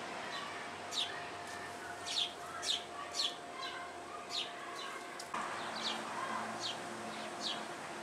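A small songbird chirping over and over: short, high notes that each slide down in pitch, about two a second.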